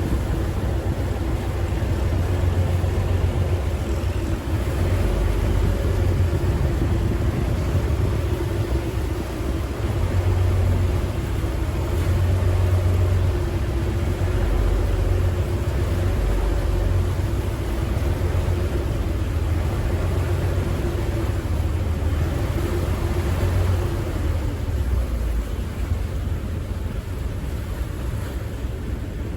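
A river ferry's engine running steadily with a low rumble, heard from on board. A steady hum in the engine note fades away near the end and the sound eases off slightly.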